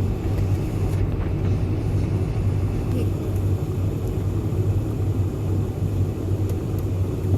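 Steady, loud rumble of a Boeing 747-400 taking off, heard inside the passenger cabin: the noise of its four jet engines and the airframe, with a strong low hum.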